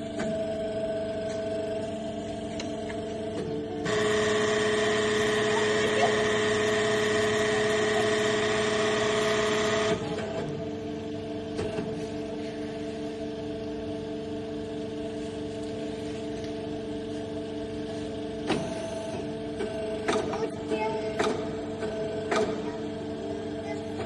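Nissei HM7 desktop injection moulding machine running during a trial cycle: a steady hum of several tones, with a louder rushing stretch of about six seconds starting about four seconds in, then a few sharp clicks near the end.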